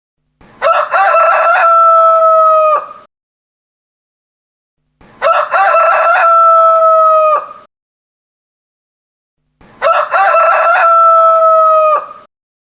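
A rooster crowing three times, about four to five seconds apart. Each crow opens with a few short broken notes and ends in a long held note that cuts off, with silence between the crows.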